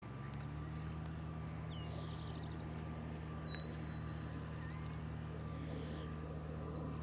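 Cessna 170's piston engine droning steadily on approach, with no change in pitch or loudness. Birds chirp briefly several times over it.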